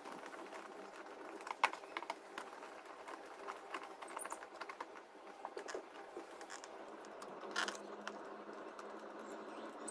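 Small irregular clicks and scrapes of a hand driver turning the screws of worm-gear hose clamps on an intake hose, with a sharper click about a second and a half in and a short scrape near the end.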